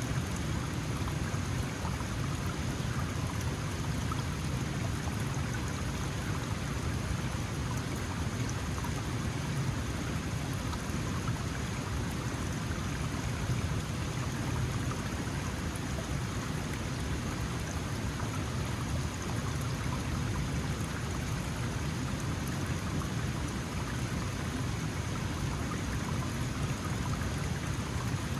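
Small mountain stream flowing over stones, a steady rushing and splashing with no break.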